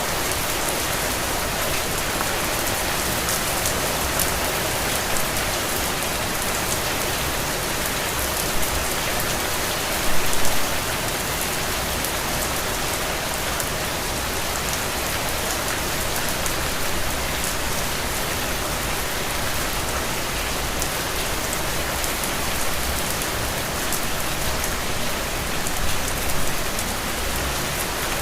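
Steady rain falling, a dense even hiss of drops pattering on surfaces, with a brief louder burst of drops about ten seconds in.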